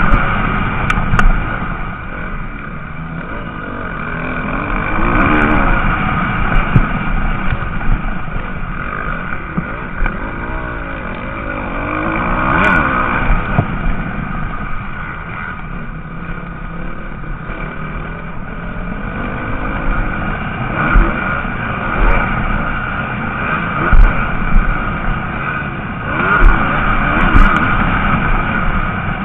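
Motocross bikes racing, their engines revving up and down over and over, louder as bikes pass about 5 and 12 seconds in.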